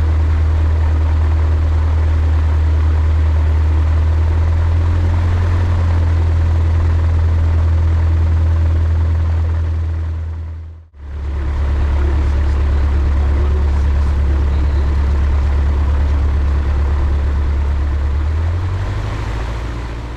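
Light aircraft's engine and propeller heard from inside the cockpit: a loud, steady low drone. It fades out about halfway through, fades back in, and fades out again at the end.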